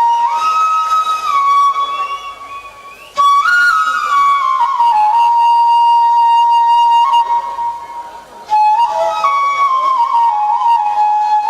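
Bansuri (bamboo flute) playing a slow melody of long held notes that step up and down. It comes in three phrases, with the second and third coming in suddenly about three and eight and a half seconds in.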